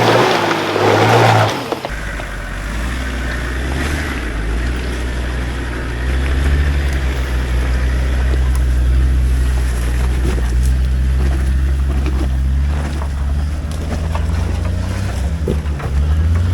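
Four-wheel-drive engine working steadily at low revs on an off-road track, a deep even drone. The first couple of seconds are drowned by a loud burst of rushing noise over a rising engine note.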